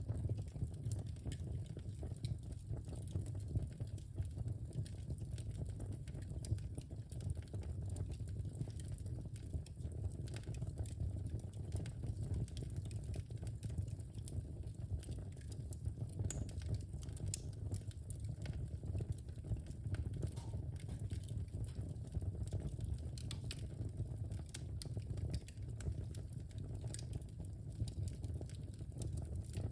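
Wood fire burning in a fireplace: a steady low rumble with frequent small crackles and pops at irregular intervals.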